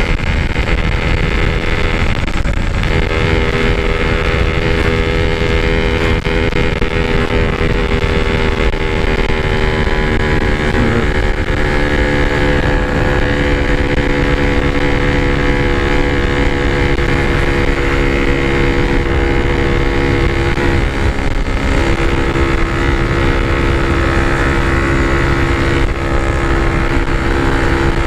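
Yamaha RX-King's 135cc two-stroke single-cylinder engine running at a steady cruise while being ridden, its exhaust note holding a fairly even pitch that sags slightly and then picks up a little about two-thirds of the way through.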